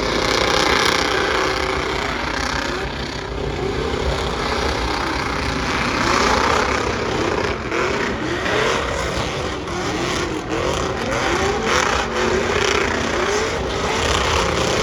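Drag-racing engine revving in quick repeated blips, its pitch rising and falling about once or twice a second, over a steady rush of noise.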